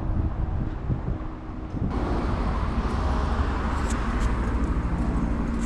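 Street traffic: vehicle engines running with road noise, a low steady rumble that grows fuller and louder about two seconds in.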